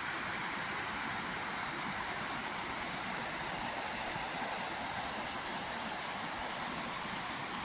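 A steady, even rushing noise, strongest in the upper range, with no distinct events and no change in level.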